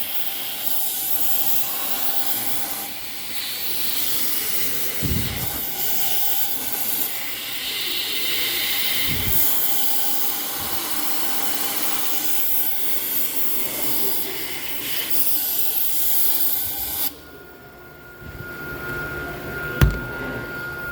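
Compressed-air blow gun hissing into a VW Polo's rear brake to blow out the brake lining dust that had locked the wheel. The hiss varies as the nozzle moves and stops abruptly about 17 s in. A single sharp knock follows near the end.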